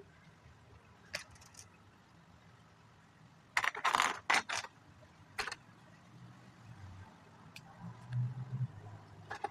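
Plastic Lego pieces clicking and rattling as they are handled, with a short burst of clattering in the middle and a few single clicks before and after.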